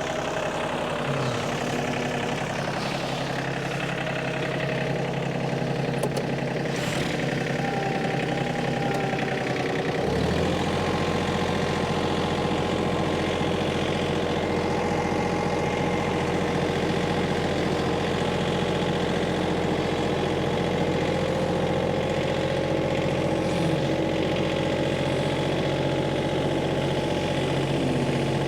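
Tractor engine running steadily, its note changing and growing a little louder about ten seconds in as it is throttled up or takes load.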